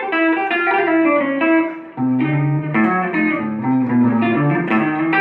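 Electric guitar playing clean chords and single notes through a Verve Sound Rise's clean booster pedal, the sound full with a marked attack on each note. The phrase breaks off briefly about two seconds in, then resumes.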